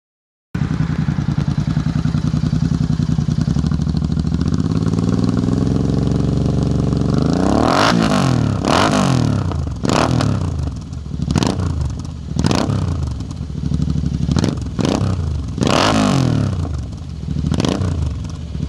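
Royal Enfield Interceptor 650's parallel-twin engine through a custom-made exhaust, idling with a lumpy pulse, then revved in a string of quick throttle blips from about eight seconds in, each rising sharply and dropping back to idle.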